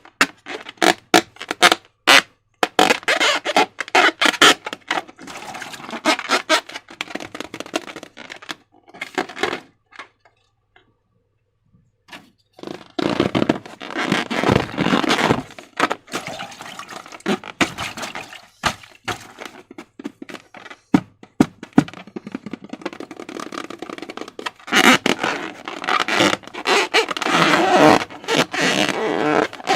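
Hands squishing and stretching slime and balloons, with a run of sticky crackles, clicks and squelches. The sound stops for about two seconds near the middle.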